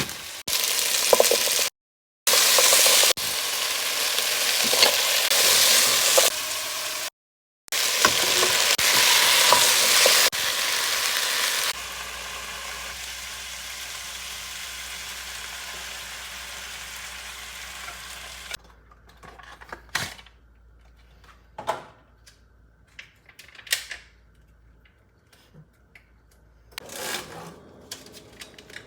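Food sizzling and frying in a pan, in several short clips cut together with brief gaps. Partway through it drops to a quieter, steady hum, followed by a few separate knocks.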